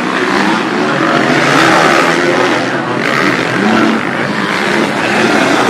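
Motocross bike engines running hard on track, several at once, their pitch rising and falling as they rev and shift.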